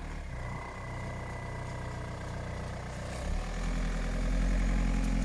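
BMW E46 3 Series diesel engine running just after starting, a steady low idle. It gets louder about three seconds in as the car pulls out of the garage.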